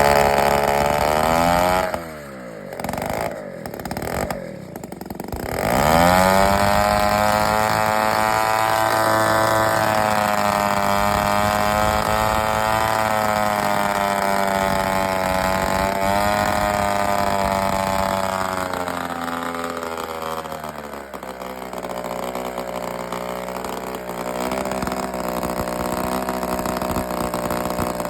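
A small engine revving. Its speed falls in the first two seconds, it is blipped up and down a few times, and then it is held at high revs for about a dozen seconds. Around twenty seconds in it drops to a lower, uneven speed and runs on.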